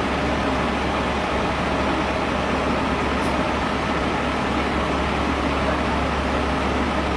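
Steady low rumble of running vehicle engines and street traffic, unbroken and even.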